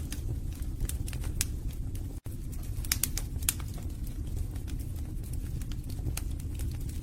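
Wood fire burning in a fireplace: a steady low rumble of flames with frequent small crackles and pops from the logs, and a momentary cut-out about two seconds in.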